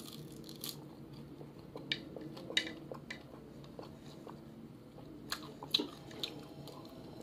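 Close-up chewing of fried dried fish and rice eaten by hand, with scattered sharp clicks and crackles from the mouth.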